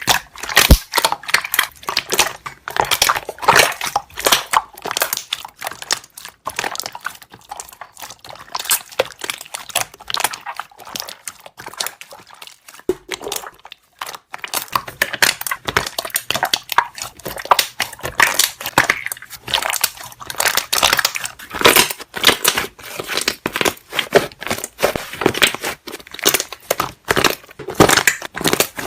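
Slime being squeezed and pressed, its trapped air bubbles popping in a dense run of rapid crackling clicks, with a brief lull about halfway through.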